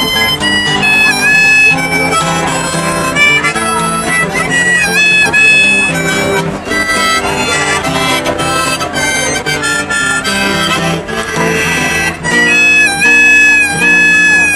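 Harmonica playing an instrumental melody line with bent notes over acoustic guitar accompaniment, after the last sung line of the song.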